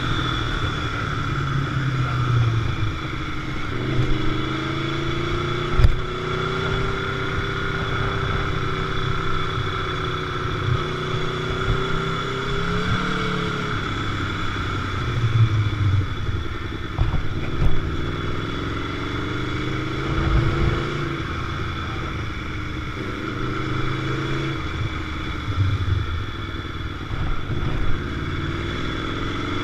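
Sport motorcycle engine running while riding, its pitch rising and falling again and again as it revs and shifts through the gears, over a steady rushing noise with a few short thumps.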